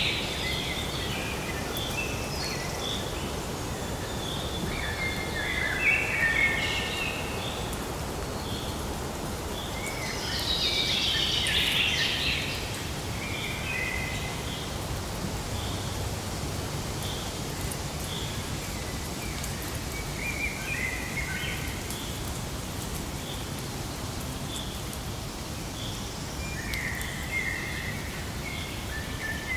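Several birds calling over a steady rushing background noise. There are descending trills at the start and again about eleven seconds in, scattered chirps, and a short high note repeated about once a second through the second half.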